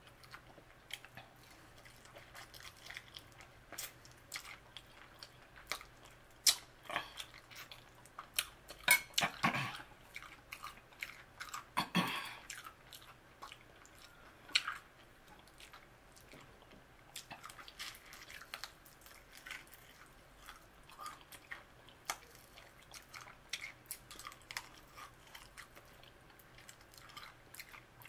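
Close-miked chewing and biting of fried chicken wings: crunches of the fried coating and wet mouth clicks at an irregular pace, loudest about nine and twelve seconds in.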